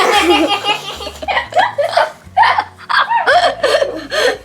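People laughing in short bursts, with bits of voice mixed in.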